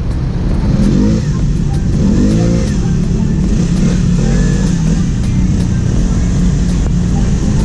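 Vespa S125 scooter engine running on the road, its pitch rising and falling a few times, under background music with a steady beat.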